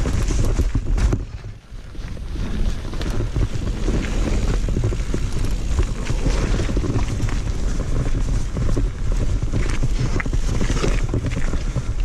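Mountain bike riding fast over a rough trail: wind buffeting the camera microphone over a steady rumble of tyres on dirt, with many quick knocks and rattles from the bike. The noise drops briefly about a second and a half in.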